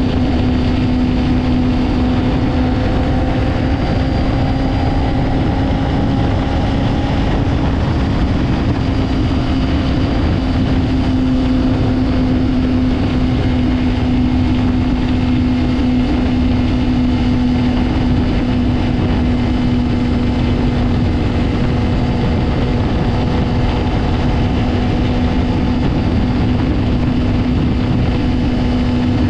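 Honda CBR600RR's inline-four engine running at steady, high revs, its note holding an even pitch throughout, over a constant rush of noise.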